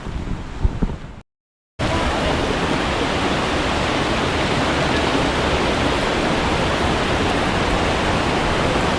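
Loud, steady rush of a fast mountain stream in spate, an even roar of water without change. It starts after a brief cut to silence about a second and a half in, following a moment of patter and a couple of knocks.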